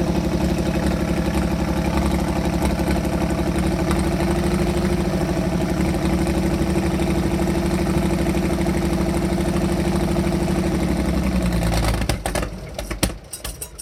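460 tractor's engine idling steadily, then shut off about twelve seconds in, running down with a few knocks before it stops.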